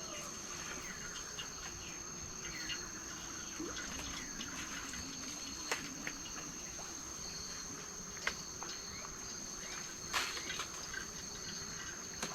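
Insects trilling on steady high notes, with a few faint clicks about halfway through.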